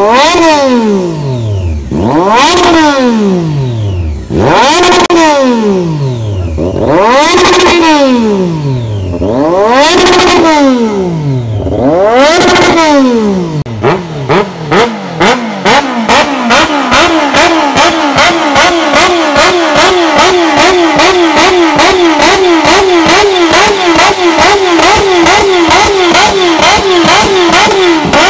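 Motorcycle engine revved about six times in a row, each rev rising quickly and falling back. About halfway through it changes to a fast, steady pulsing with a quick wobble in pitch.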